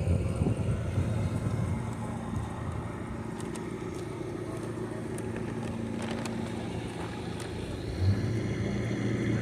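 A car engine running steadily, with a low hum that gets louder about eight seconds in.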